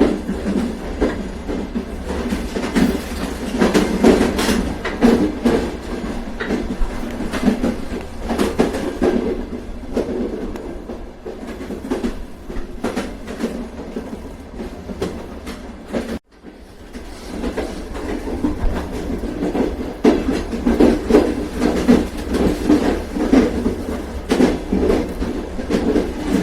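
A passenger train running on the rails: a steady rolling rumble with the clickety-clack of wheels over rail joints. The sound cuts out for an instant just past the middle, then picks up again.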